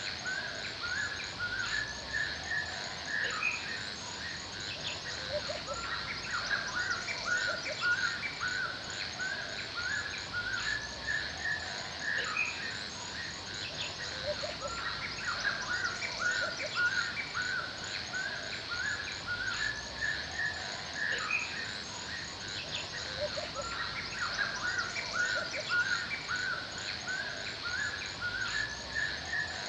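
Forest birdsong: several birds chirping and calling in short repeated phrases, over a steady high hiss and a fast, even, high-pitched ticking.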